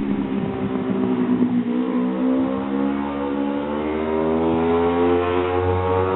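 1978 Honda CB 125 cc four-stroke parallel-twin engine in a Cagiva Mito frame, running with its note climbing steadily in pitch for about five seconds.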